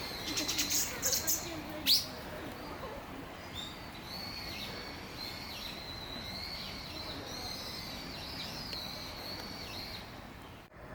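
Bird chirping: a quick run of chirps and one loud, sharp rising note about two seconds in, then a thin, high song that wavers and dips.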